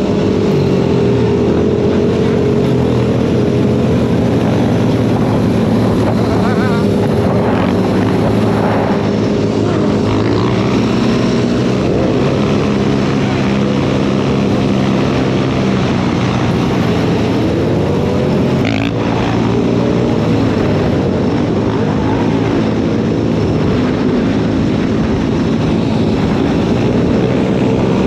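Several dirt bike engines running together, their pitches drifting up and down as they rev.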